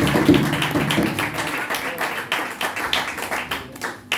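Tap shoes clicking sharply on the floor amid hand clapping, with the band's music dying away.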